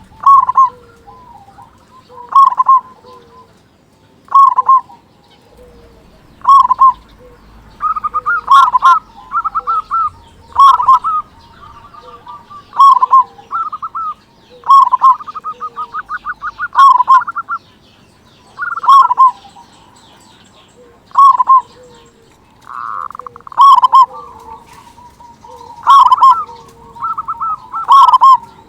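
Local zebra dove (perkutut) singing its loud cooing song over and over, a call about every two seconds, some of them quick runs of rolling notes.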